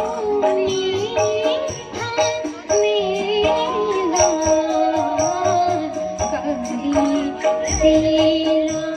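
Uttarakhandi folk song sung by a woman, with musical accompaniment: a steady percussion pattern and a held low note under the wavering melody.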